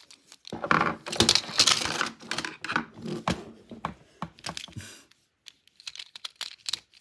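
Small plastic toy-train parts being handled and fitted together by hand: a dense run of clicks, taps and rattles, thinning to scattered clicks after about five seconds.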